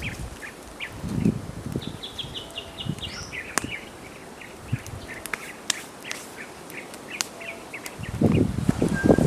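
A wild bird calling in a quick run of short, repeated high notes, with scattered small clicks. Louder rustling starts near the end.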